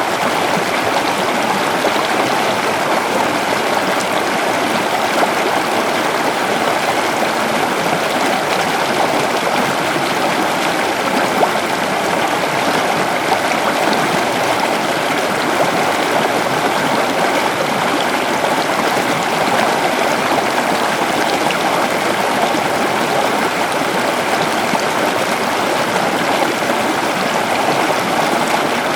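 A river flowing over rocks: a steady rush and gurgle of water that holds an even level throughout.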